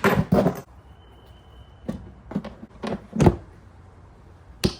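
A series of sharp knocks and clunks from hand tools and parts being handled during outboard motor repair work. There is a quick cluster at the start, then single knocks spread through the rest, the loudest about three seconds in.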